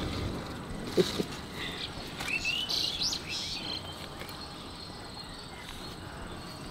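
Birds chirping, with a few quick gliding calls about two to three seconds in, over a faint steady background of insects. A single sharp click about a second in.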